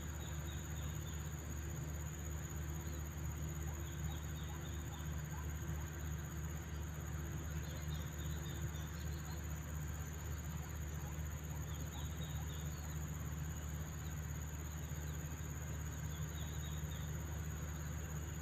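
Outdoor ambience of a steady, high-pitched insect drone over a low steady rumble, with short clusters of faint chirps about every four seconds.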